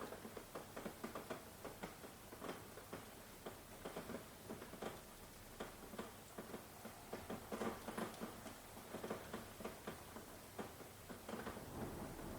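Rain falling, heard as irregular pattering of separate drops striking close by, with a faint steady hiss of rain beneath.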